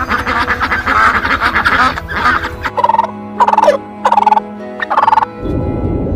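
Domestic fowl calling: a rapid rattling, gobble-like call lasting about two and a half seconds, then four short calls in a row. A harsh, noisy sound takes over near the end, and steady background music plays throughout.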